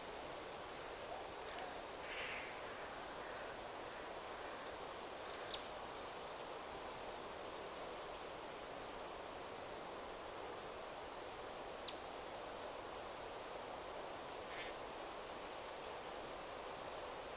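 Wind rustling steadily through forest trees, with short, high, thin bird calls scattered every few seconds and one fainter, rougher call about two seconds in.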